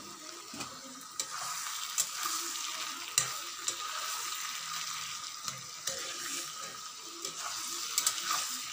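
Bamboo shoot curry sizzling in a wok as it is stirred with a metal spatula, which clicks and scrapes against the pan several times.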